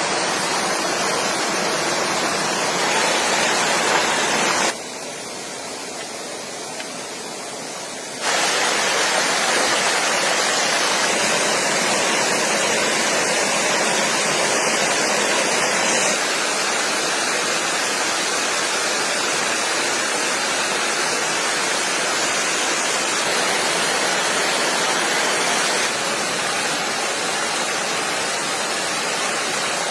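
Stream water rushing steadily. It drops abruptly to a quieter level for a few seconds about five seconds in, then returns.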